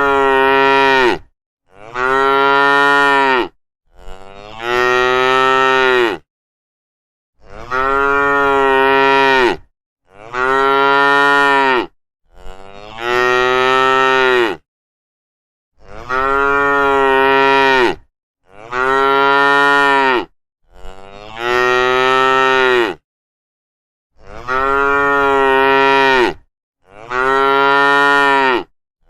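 Cattle mooing: a steady series of about eleven long, loud moos, each around two seconds with a slight drop in pitch at its end, separated by short silent gaps.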